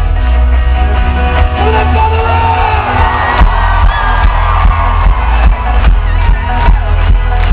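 Live folk-rock band playing loudly, with a heavy low end and a steady pounding beat, and voices singing and shouting over it.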